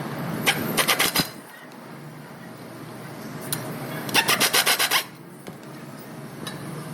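Power tool rattling in two short bursts of rapid, evenly spaced strikes, about ten a second, the first half a second in and the second around four seconds in, over a steady low hum.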